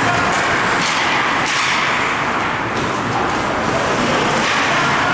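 Steady wash of ice rink game noise: indistinct crowd chatter with a few sharp knocks scattered through it.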